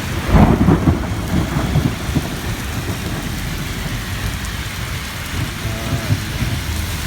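Thunder rumbling for about two seconds shortly after the start, over steady rain falling on a city street.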